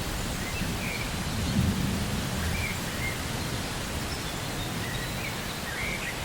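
Rainforest ambience: steady rain with a low rumble of thunder that swells about a second and a half in, and a few faint short bird chirps.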